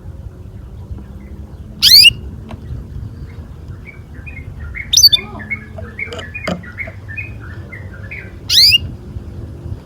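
Domestic canary calling: three loud, short, sharply rising calls about three seconds apart, with softer twittering notes between the second and third, over a low steady hum.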